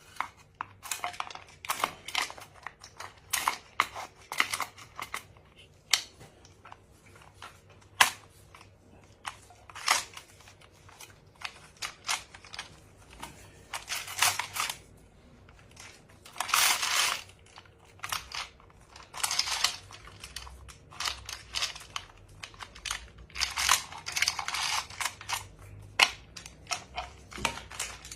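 Irregular sharp metal clicks and knocks of hand tools and engine parts being handled, broken by a few scraping or rattling stretches about a second long.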